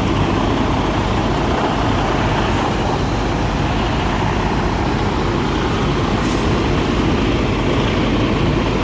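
Semi truck's diesel engine running steadily at low speed as the truck backs slowly under a trailer.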